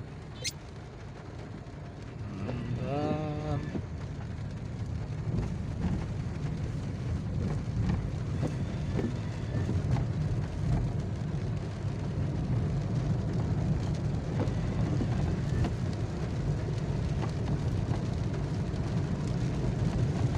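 Steady low rumble of a car driving on a wet road in the rain, with one brief pitched call about three seconds in.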